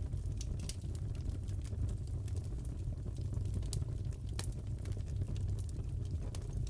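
Wood fire crackling in a fireplace: a low steady rumble of flame with irregular sharp crackles and pops scattered throughout.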